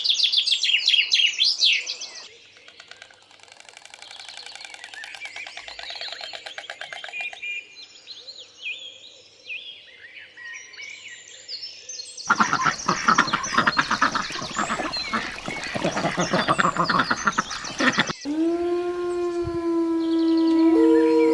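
A string of animal calls with abrupt cuts between them. First come dense, high bird chirps, then softer chirping. About twelve seconds in, a loud, rapid chattering call takes over. Near the end it cuts to drawn-out pitched calls that slide down in pitch and then hold steady.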